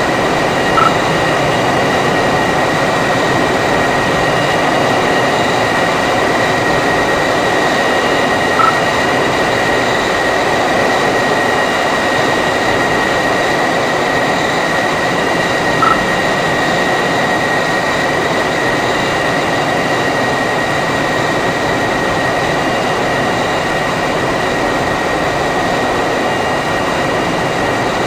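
Jet engine running steadily with a high, even whine over a loud roar. Three short high beeps sound about seven seconds apart.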